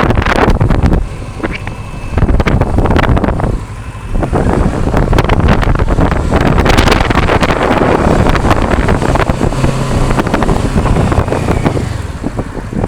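Wind buffeting an action camera's built-in microphone in loud, uneven gusts, over the Kawasaki Versys 650's parallel-twin engine running underneath.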